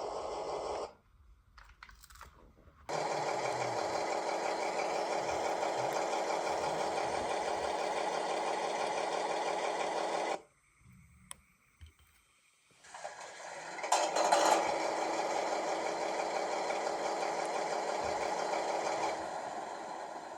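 ESU H0-scale model of the DR class 110 diesel locomotive running, its sound decoder playing diesel engine sound through a small loudspeaker. The sound cuts out twice for a couple of seconds and comes back, has a brief louder burst about two-thirds of the way through, and fades near the end.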